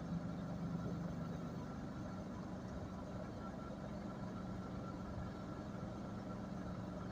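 Jet airliner engines running steadily at a distance: a low hum with a thin, steady whine above it, easing off slightly near the end.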